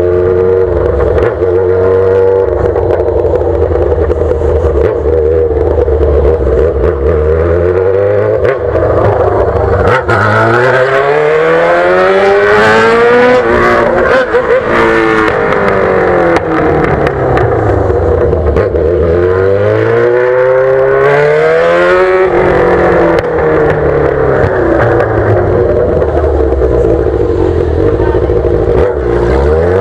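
Yamaha XJ6's 600 cc inline-four running through a straight-pipe exhaust with no muffler, under way. The engine note holds steady at first, then rises and falls several times as it is revved up and backed off, steadies again, and climbs once more near the end.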